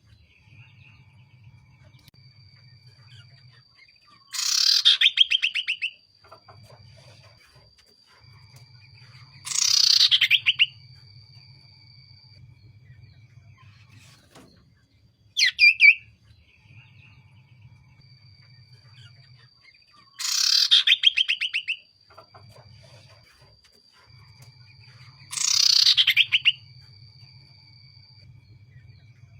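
Common iora (cipoh) calling: loud, falling, rattling trills about every five seconds, with long, thin, steady whistled notes held between them.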